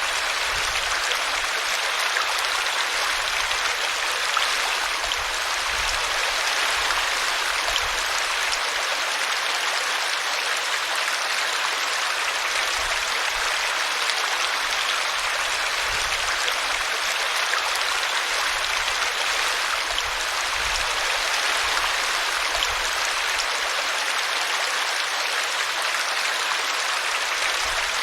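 Small brook running steadily, its water rushing and splashing over a tree root in an even, unbroken wash.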